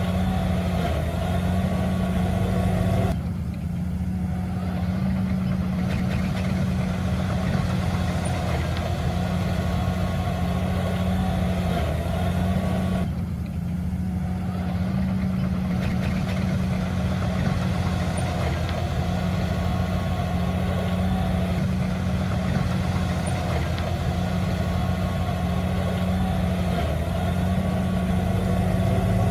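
Diesel engine of heavy earthmoving machinery running steadily under load. Its sound goes briefly duller twice, about three and thirteen seconds in.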